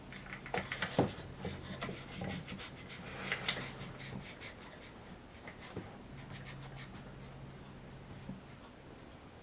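A woodworking clamp being set and tightened on freshly glued wood pieces: light knocks and a quick run of clicks in the first few seconds, then one more click, over a faint steady low hum.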